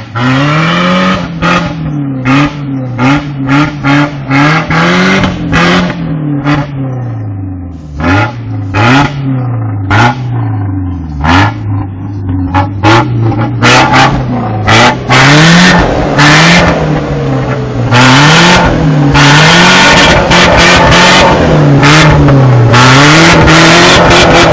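Toyota four-wheel-drive engine revved up and down over and over with the wheels spinning, the truck high-centred and hung up on its frame. Harsh bursts of noise come with the revs, growing louder and almost continuous about halfway through.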